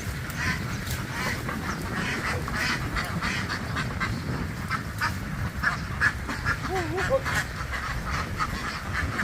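A large flock of domestic ducks quacking continuously, many overlapping short calls, over a steady low rumble.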